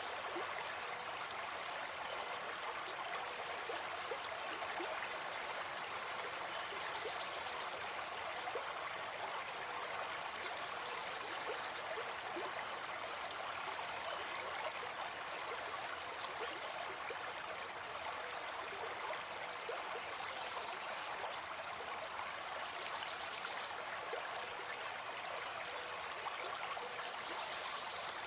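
Gentle forest stream flowing, a steady, even wash of water.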